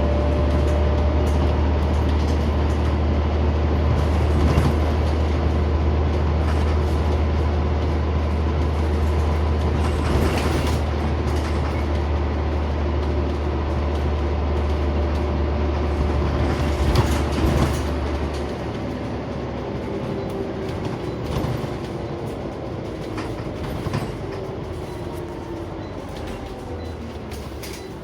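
Scania CN94UB Omnicity single-deck bus under way, heard from inside: engine drone and road noise, with rattles and knocks from the body. About two-thirds through, the deep engine drone drops away, and the sound then fades steadily as the bus slows.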